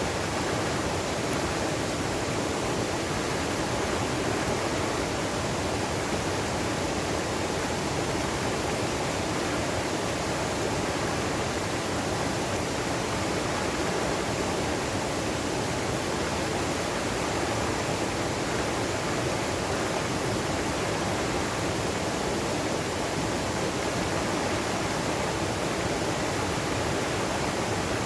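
Valley stream water rushing over rocks: a steady, unbroken rush.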